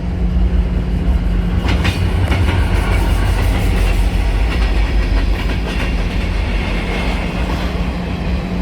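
Freight train running past: a steady low rumble and hum, with the wheels clicking over rail joints, most sharply about two seconds in.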